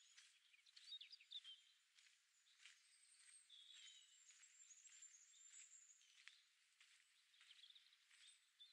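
Faint birdsong: several small birds chirping, with short high calls and a thin trill, over a soft background hiss.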